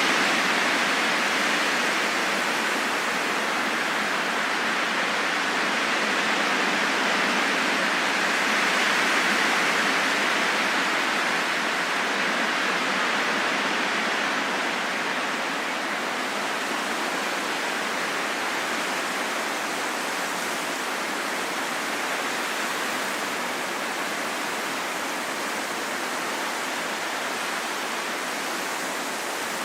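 Steady wind noise: an even rushing hiss with no low rumble, swelling a little and easing off slowly.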